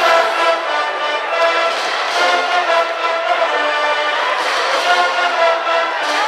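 Japanese high-school brass band playing a baseball cheering song, with brass instruments holding a melody of sustained notes.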